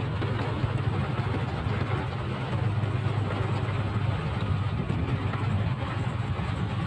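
Motorcycle engine running steadily with a low, even hum, under a haze of road and air noise.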